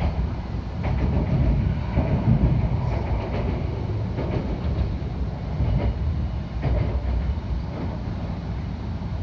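Running noise heard inside a Tohoku Shinkansen E2 series train at speed: a steady low rumble with occasional clacks from the wheels on the track.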